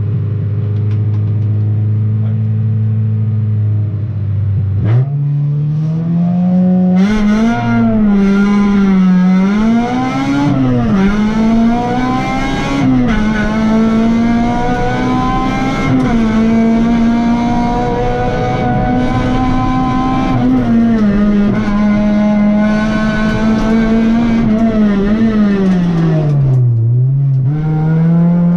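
Honda Civic Type R race car's engine heard from inside the cabin: held at steady revs on the start line, then launching about five seconds in and revving hard up through the gears, its pitch dropping at each upshift. Near the end the revs fall low as the car slows for a bend, then climb again under full throttle.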